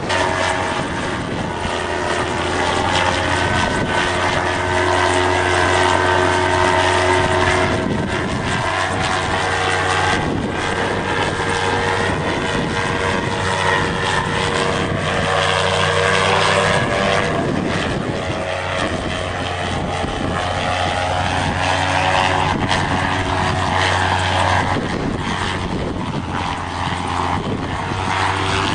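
MT-03 gyrocopter's engine and pusher propeller running steadily in flight, a constant droning hum. The engine note rises slightly near the end.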